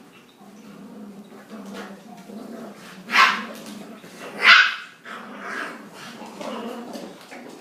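Puppies growling at play, with two loud, sharp barks about three and four and a half seconds in.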